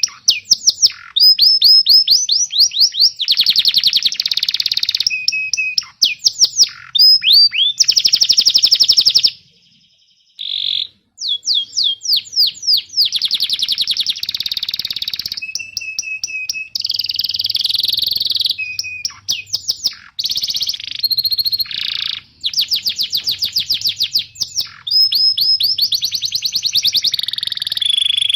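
Domestic canary singing in long runs of rapid trills and chirps, the notes repeating fast and sweeping up and down, with a brief pause about ten seconds in.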